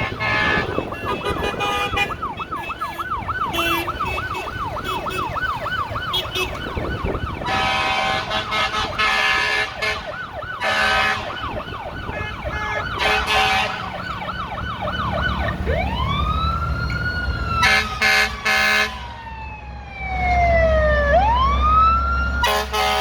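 Fire truck siren sounding, first in a fast yelp for most of the time, then in a slow wail that rises, falls away and climbs again near the end. Repeated short horn blasts sound over it, with a low engine rumble in the last few seconds.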